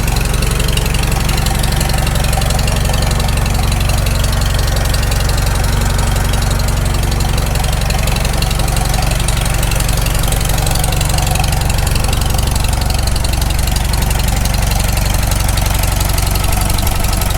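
Farmall Super M's freshly rebuilt four-cylinder spark-ignition engine running steadily on its first run after the rebuild, still warming up, with the generator charging.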